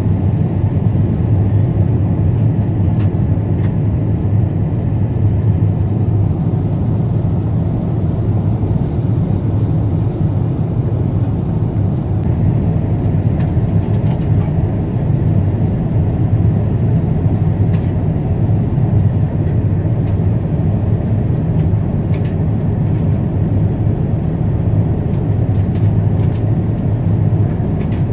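Airliner jet engines heard from inside the passenger cabin: a steady, loud, low rumble of engine and airflow noise.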